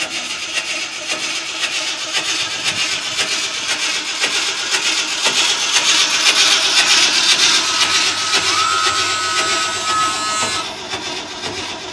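A 1976 Ford F100's starter cranking the engine, a steady rasping churn that keeps going without the engine catching; it eases off near the end.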